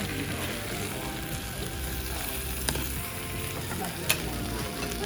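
Rice and egg sizzling steadily in a hot stone bowl, with two sharp clinks of a utensil, about two and a half and four seconds in. Faint background music.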